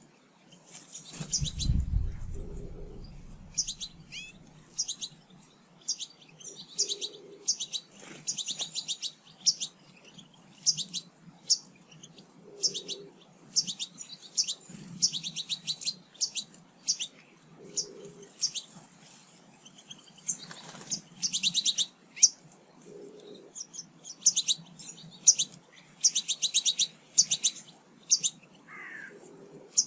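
Small garden birds chirping and twittering at feeders: many short, rapid, high trills one after another, with a brief low rumble about one to three seconds in.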